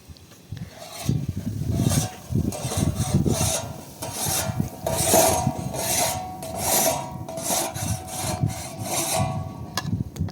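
Rhythmic rasping strokes, about one every three-quarters of a second, stopping shortly before the end.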